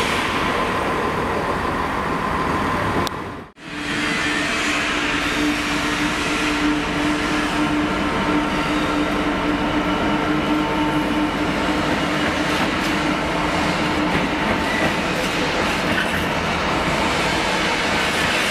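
Freightliner Class 66 diesel locomotive running as it passes close by, its steady engine note heard for about ten seconds, with the wheels of the container flat wagons rolling on the rails. The sound cuts out briefly about three and a half seconds in.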